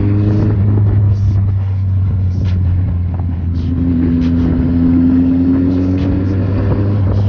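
Kawasaki Z800's inline-four engine running under way, its note rising gently at the start and again in the second half as it picks up speed, with road and wind rush.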